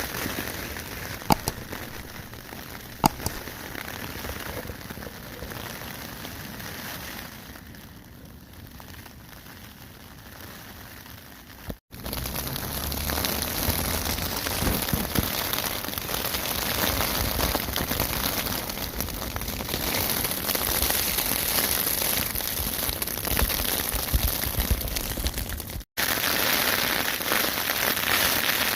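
Steady rain falling on a tent, with two sharp ticks in the first few seconds. The rain is quieter at first and turns heavier and louder after about twelve seconds.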